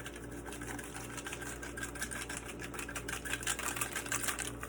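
Salt being poured from its container into a bowl of potatoes, a dense run of fast grainy ticks that grows heavier in the second half. A low steady hum runs underneath.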